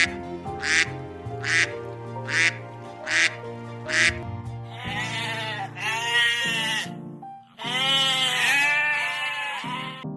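A duck quacking in a regular series of short quacks, about one every 0.8 seconds, then longer calls that rise and fall in pitch from about halfway through. Background music plays under the calls.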